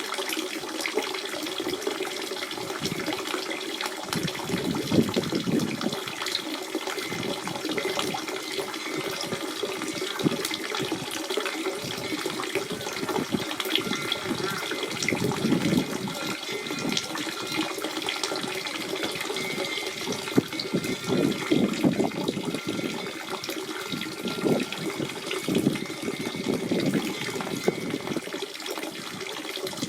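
Natural spring water running and splashing steadily, with a constant gurgling flow and small irregular splashes.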